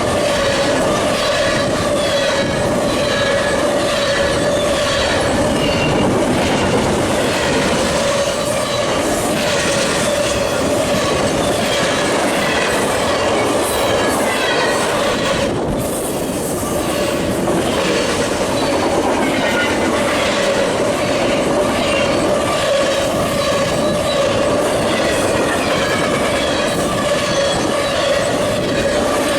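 Fast CSX intermodal freight train passing close by, its wheels clattering over the rail joints in a steady stream of clicks, with a steady tone running through the noise.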